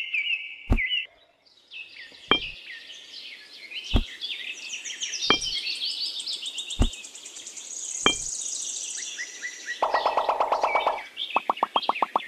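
Small birds chirping and twittering, with six sharp knocks about a second and a half apart. Near the end a fast, even rattling pulse starts.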